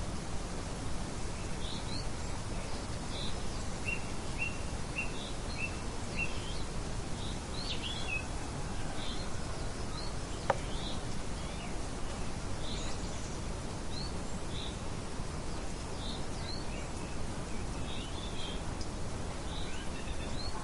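Birds chirping over a steady outdoor background hiss: scattered short high chirps, with a run of about six short, evenly spaced notes a few seconds in. A single sharp click about halfway through.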